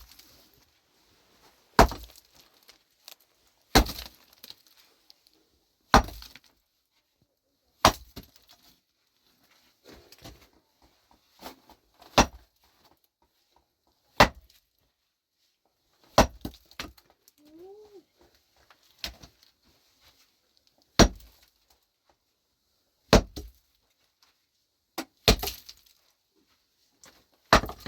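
A pickaxe striking hard, stony ground in a steady rhythm, about one blow every two seconds, each a sharp crack with a short ring after it.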